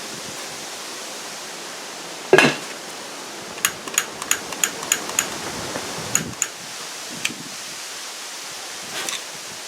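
Lacquer thinner set alight inside a lawn tractor tire to seat the bead: one dull thump about two seconds in, then a run of sharp metallic clicks over a steady hiss. The thinner burns instead of exploding, so the bead does not pop.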